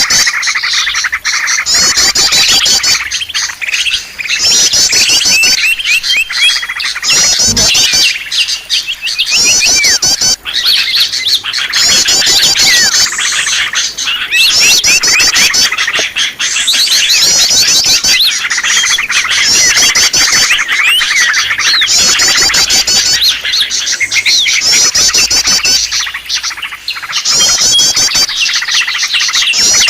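A bird-lure recording of small songbirds chattering noisily together, with bursts of fast, high trilling calls every two to three seconds over a constant busy twitter.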